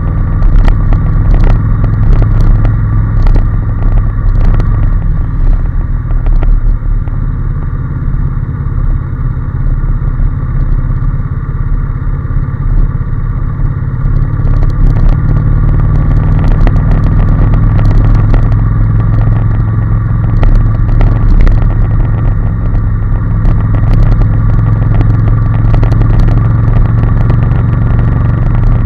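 Honda NC750S motorcycle's parallel-twin engine running under way on the road, steady and loud, easing off slightly in the middle and picking up again later.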